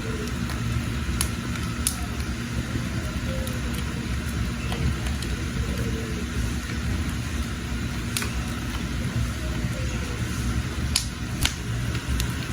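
Wood fire burning with a steady low rush, broken by a few sharp crackles and pops from the burning wood.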